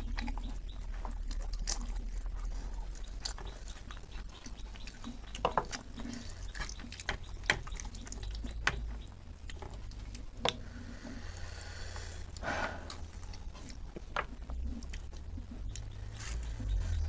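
Wet chewing and lip-smacking as a person eats saucy pork with his hands, with irregular sharp clicks of the mouth and the squelch of sauce-covered fingers pulling the meat apart.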